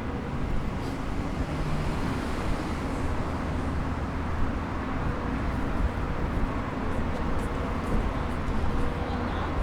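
Downtown street ambience dominated by a steady rumble of traffic, with a faint steady hum running through it.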